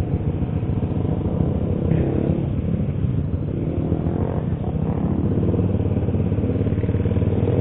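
Honda CBR150R motorcycle's single-cylinder engine running steadily while riding at an even speed.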